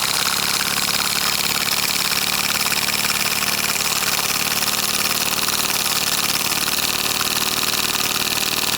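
Tiny governor-controlled model steam engine running steadily on steam, with a rapid, even exhaust beat over a strong hiss.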